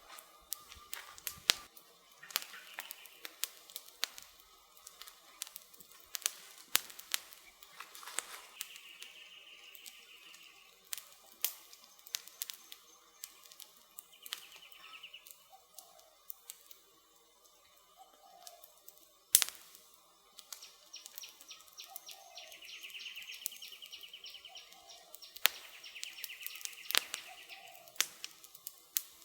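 Wood campfire crackling, with many irregular sharp pops and snaps, the loudest about two-thirds of the way through. High trills at intervals, and short low calls every couple of seconds in the second half, run under it.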